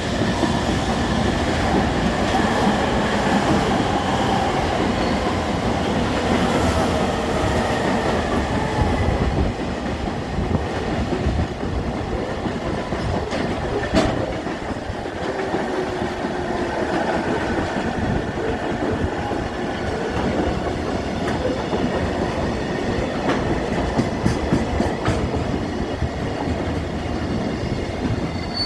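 Freight train rolling past, a steady loud noise of wagons on the rails, with one sharp click about fourteen seconds in.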